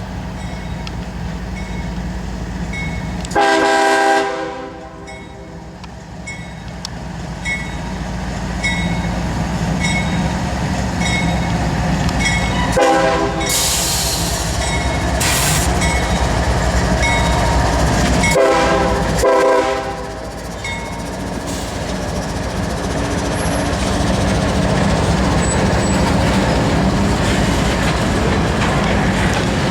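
Diesel freight locomotive horn sounding over the steady rumble of the train: one long blast about three seconds in, a short blast about halfway, and two short blasts close together a few seconds later. The rumble of the engines and rolling cars grows louder toward the end.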